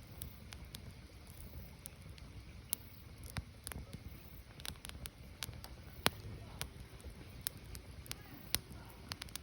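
Burning firewood crackling: irregular sharp pops and snaps over a low steady rumble, with a louder pop about six seconds in.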